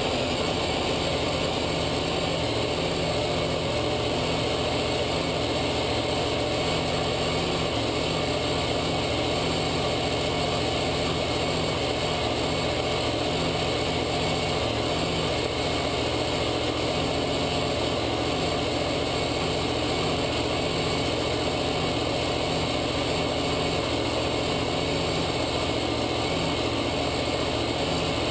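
Supercharged V8 on an engine dyno idling steadily, with no revving.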